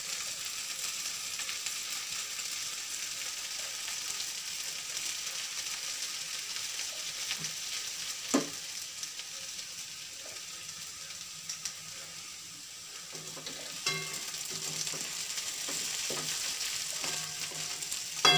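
Food sizzling in hot oil in a steel pan with mustard seeds, curry leaves and dried red chillies. A steady frying hiss, with a utensil knocking against the pan a few times, most clearly about eight seconds in and again near fourteen seconds.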